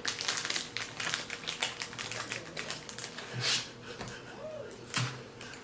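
Granola bar being chewed: many quick, irregular crunches.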